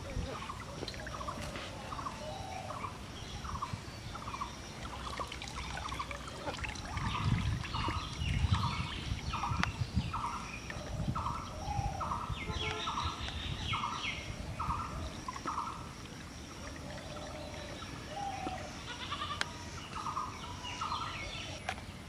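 A bird calls over and over at a steady pace, about two short calls a second, stopping about two-thirds of the way through. Higher chirps from other birds join in the middle, along with a low rumble.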